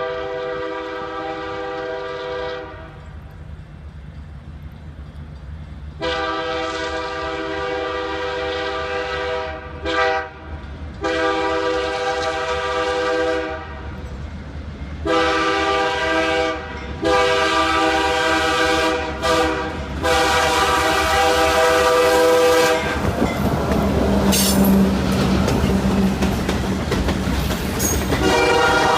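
Horn of a freight train led by two EMD GP38-3 diesel locomotives, sounding the grade-crossing signal: long, long, short, long blasts, then another run of blasts. Near the end the horn stops while the locomotives and cars pass close by with loud rumbling and wheel clatter, and the horn sounds again at the very end.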